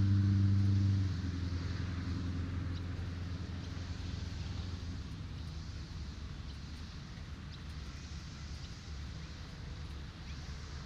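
Road traffic: a vehicle's low, steady engine hum stops abruptly about a second in, and its rumble then fades away gradually. A faint steady hiss of surf lies underneath.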